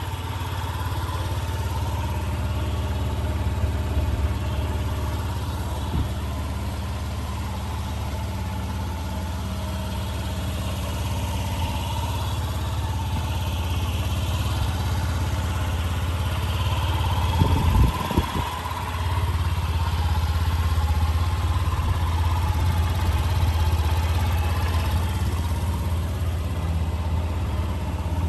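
Honda Gyro X scooter's four-stroke single-cylinder engine idling steadily, with a brief cluster of low thumps about two-thirds of the way through.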